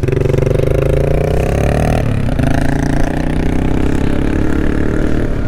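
Motorcycle engine running on the move, its pitch climbing for about two seconds, then dropping at an upshift and holding steady.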